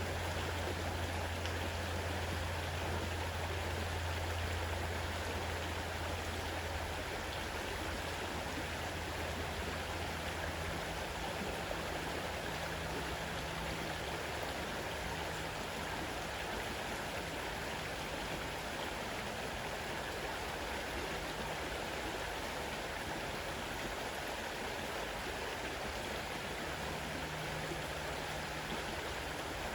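Fast-running river water rushing steadily. A low steady hum runs underneath and stops about ten seconds in.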